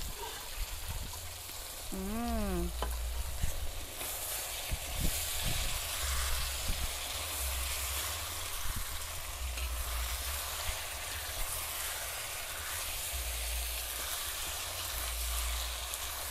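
Pressure-cooked meat bones and spice paste sizzling in a hot wok while being stirred, the sizzle getting louder about four seconds in. A short rising-and-falling tone sounds once about two seconds in.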